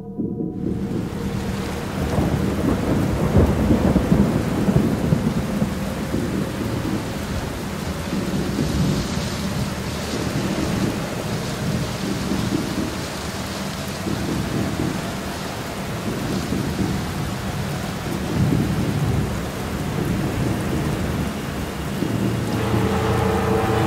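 Steady rain with rolling thunder that rumbles again and again, loudest a few seconds in. It cuts in suddenly.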